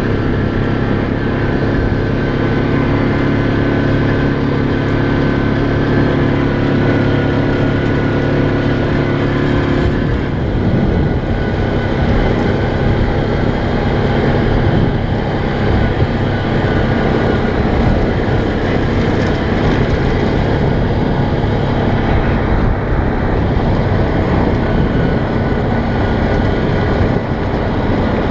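ATV engine running under way along a trail road. It gives a steady drone for about the first ten seconds, then the pitch shifts and the sound turns rougher and more uneven.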